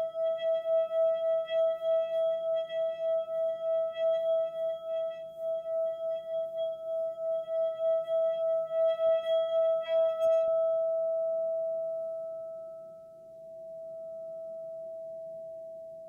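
Singing bowl sounding one steady ringing tone that wavers quickly in loudness, a few pulses a second. About ten seconds in its higher overtones stop, and the main tone rings on, slowly fading.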